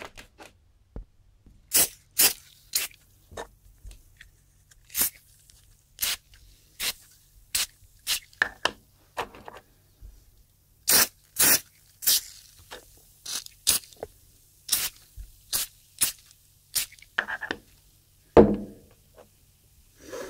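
Hand-cleaning strokes on the limiter's faceplate: a long run of short, sharp scrubbing strokes, irregular, about one or two a second, with pauses between them.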